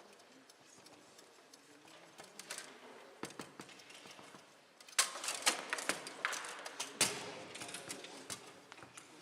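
Foosball play on a Bonzini table: scattered sharp clicks and knocks of the ball against the players and walls, then a quick run of loud hits about five seconds in.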